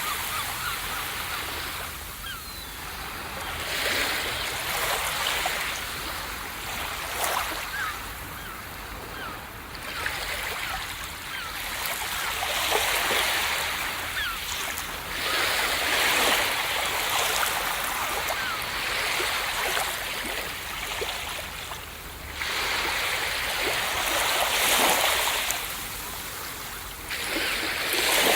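Ocean waves breaking on a beach: the hiss of surf swells and fades in surges every few seconds.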